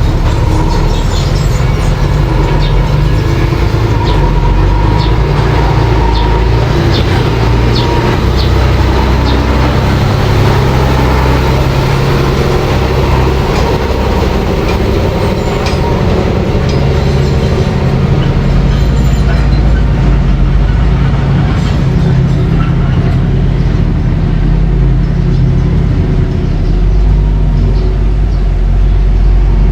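Mini bulldozer's engine running steadily under load, with a low rumble and scattered short metallic clicks and clanks.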